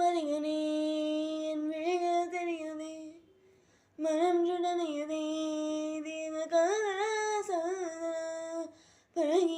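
A woman's voice singing a Tamil song unaccompanied, in three long phrases of held, wavering notes with short breaks between them.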